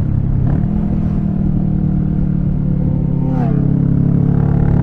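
Royal Enfield Meteor 350's single-cylinder engine running steadily while riding, with a slight rise in pitch near the start and a falling tone about three seconds in.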